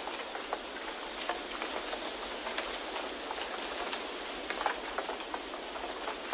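Steady wind-and-rain ambience: an even rushing hiss with scattered small ticks of raindrops.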